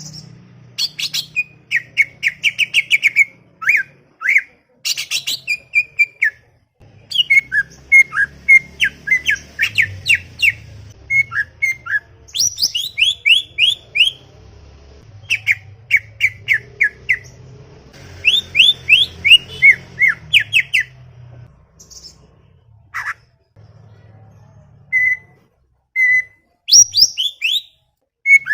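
Cucak ijo (green leafbird) singing a busy, chattering song: bursts of rapid, repeated, sweeping whistled notes, broken by short pauses and a sparser stretch of single notes near the end.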